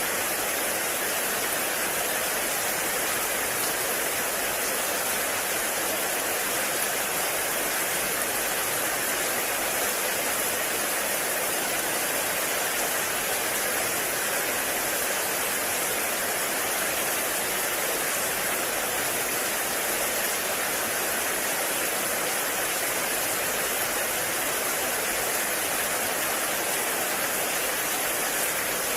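Heavy rain falling steadily on a forest, a dense even hiss without separate drops standing out.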